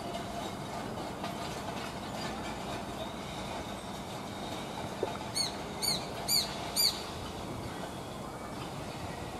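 Japanese sparrowhawk calling: a series of four sharp, arched call notes about half a second apart, a little past the middle. A steady background rumble runs underneath.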